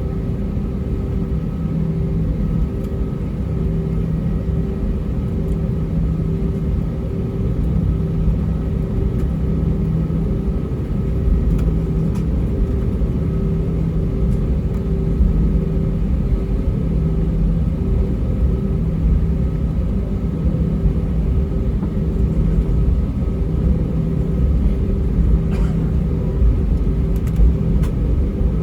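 Cabin noise inside an Airbus A320-232 taxiing with its IAE V2500 turbofans at low power: a steady low rumble with an engine hum that swells and fades in a slow, regular beat. A few faint ticks come near the end.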